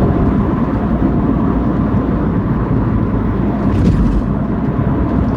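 Steady low rumble of a moving car heard from inside the cabin: tyre and engine noise while driving.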